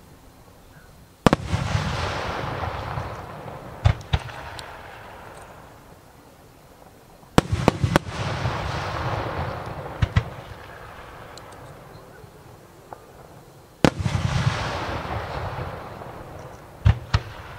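Aerial firework shells bursting: three big bangs about six seconds apart, each followed by a few seconds of fading, echoing noise. Smaller sharp reports come in pairs in between.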